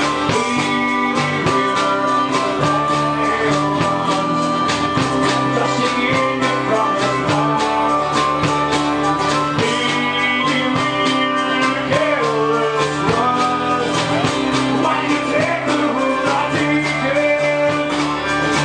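Celtic punk rock band playing live at full volume: a steady drumbeat under guitars and several melody lines, some of them sliding in pitch.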